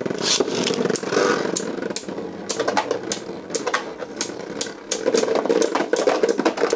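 Beyblade Burst spinning tops whirring in a plastic stadium, with many sharp clicks as they strike each other.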